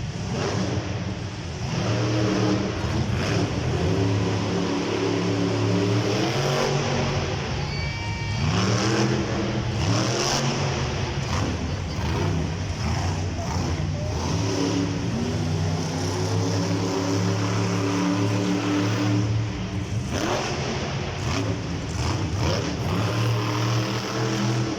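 Monster truck's supercharged V8 revving hard, its pitch rising and falling over and over as the truck runs.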